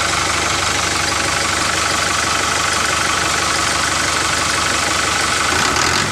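A motor running steadily with a fast, even chugging pulse.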